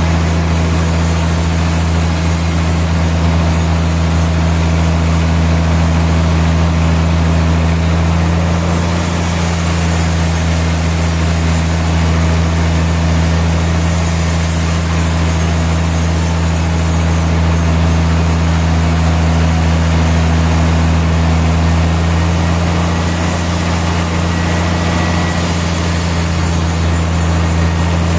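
Sawmill machinery running steadily, driven by an engine: a constant deep hum under a broad, even hiss with no breaks or changes.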